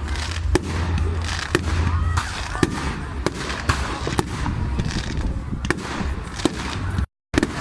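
Fireworks going off in a rapid, irregular series of sharp bangs and crackles, with a low rumble during the first couple of seconds. The sound cuts out for a moment near the end.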